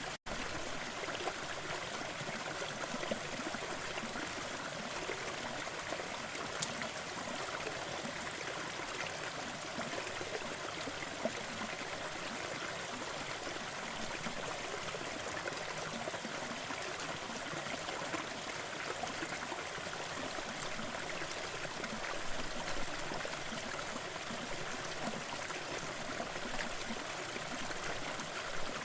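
Waterfall: a steady, even rush of falling water, broken only by a split-second gap right at the start.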